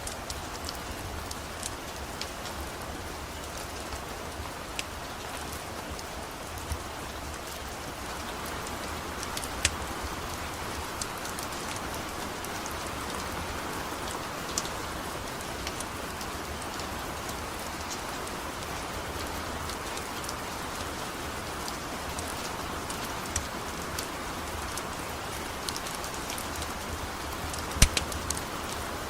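Steady rain falling, with scattered sharp crackles and pops from a wood fire, the loudest one near the end.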